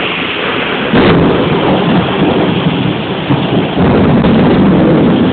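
Thunder rumbling over heavy rain in a sudden thunderstorm. A loud crack comes about a second in, and a deep rumble builds again in the second half.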